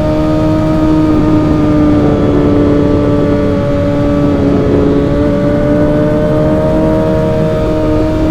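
Suzuki GSX-R1000's inline-four engine running at steady, fairly high revs with its pitch holding nearly level, over a low rush of noise.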